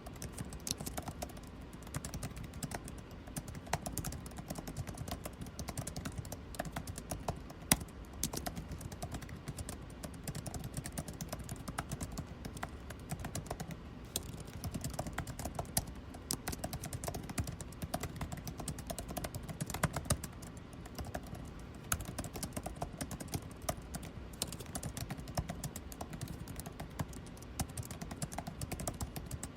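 Computer keyboard typing: quick, irregular keystrokes that keep on without a break, over a steady low air-conditioning hum.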